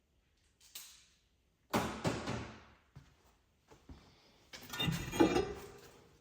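Metal tools and parts clanking and clattering, in a few separate bouts, the loudest about two seconds in and again near five seconds, with a ringing metallic rattle.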